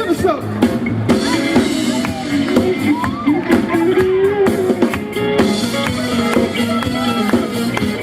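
Live band playing an instrumental funk groove: a drum kit keeping a steady beat under a bass line and a gliding lead melody.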